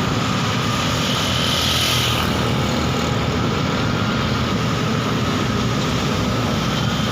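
Heavy diesel engine running steadily, without pause or change in pace.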